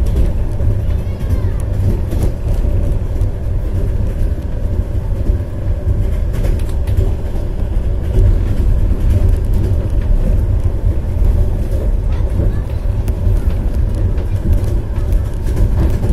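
Steady low rumble of a moving passenger train heard from inside the carriage: wheels and running gear on the track at speed, with a few faint knocks.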